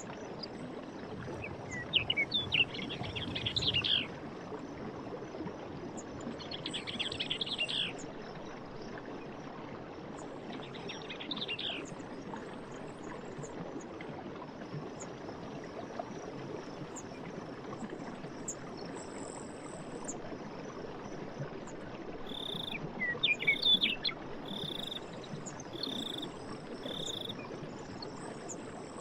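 Forest ambience: running water makes a steady rushing hiss while songbirds sing short twittering phrases three times early on. Near the end a bird repeats one clear note five times, about one a second, over faint high-pitched chirps.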